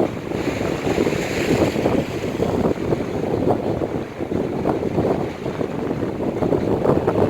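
Strong, gusting wind buffeting the microphone over the noise of storm waves breaking on the shore.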